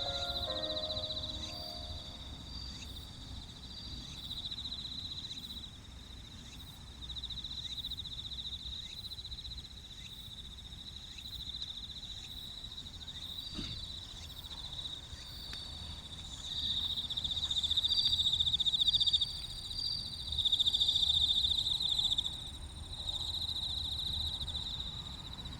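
Bell crickets (suzumushi) trilling: a high, ringing chirr in bouts of a few seconds that swell and break off, loudest in the last third.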